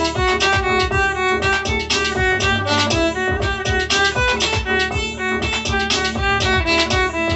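Melodic hand drum played in a quick, flowing run of ringing pitched notes over a sustained low drone.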